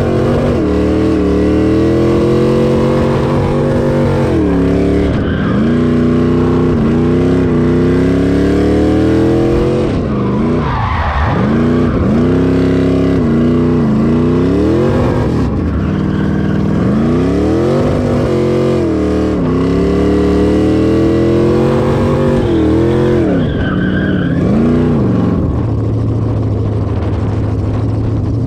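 Car engine revving hard again and again during a power skid, its pitch climbing and dropping every few seconds over the hiss of spinning tyres. Near the end it settles to a steady idle.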